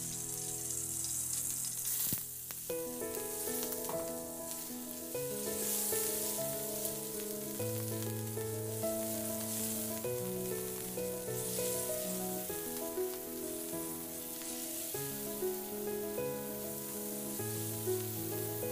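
Chicken pieces sizzling as they sear in hot oil in a wok, turned now and then with a wooden spatula, with soft background music of held notes.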